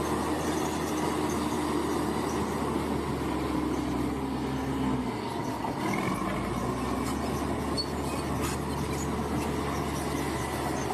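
Bulldozer's diesel engine running and its steel tracks working, a steady heavy machine sound; the engine note dips briefly about five seconds in and then picks back up.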